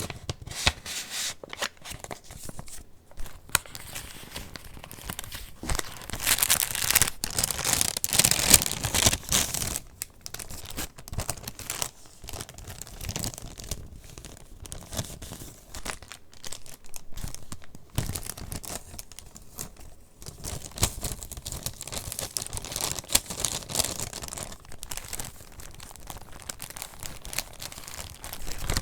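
Paper pages of a handmade junk journal rustling and crinkling as they are handled and turned. The sound is loudest about six to ten seconds in.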